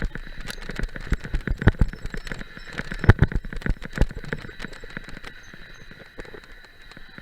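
Mountain bike rattling and knocking over a rough trail: a fast, uneven run of clatters and thumps that is heaviest in the first four seconds and eases off after about five, over a steady hiss.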